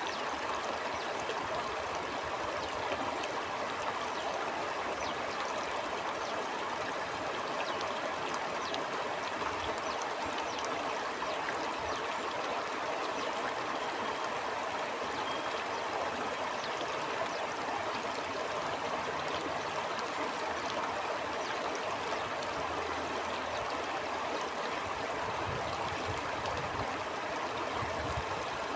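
Stream water flowing and gurgling steadily, with fine splashes and trickles over a continuous rush.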